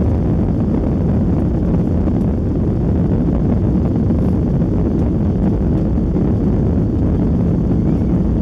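Steady low rumble inside the cabin of a Boeing 737-800 during takeoff: its CFM56-7B jet engines and the airflow over the fuselage, with no change in pitch or level.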